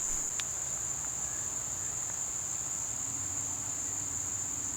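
Steady, high-pitched insect chorus, a continuous unbroken trill, with a single faint click about half a second in.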